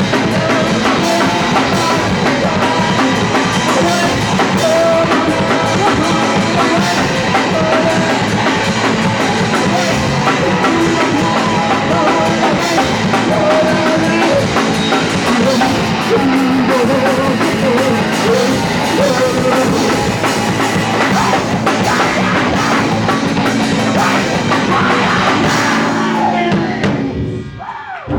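Live punk rock band playing loudly, with a pounding drum kit and singing. The song stops near the end.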